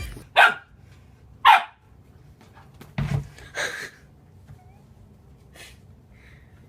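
A dog barking in short single barks: two loud barks about a second apart, two more a little over a second later, and a fainter one near the end.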